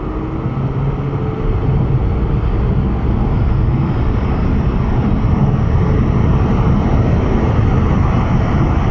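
A car running at speed: a loud, steady low rumble, with a faint rising tone fading out in the first second.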